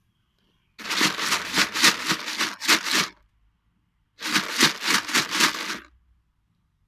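Something shaken in two bouts of rapid rattling, about five or six shakes a second; the first bout lasts about two and a half seconds, the second under two. It is a rattle-shake used to call a cat.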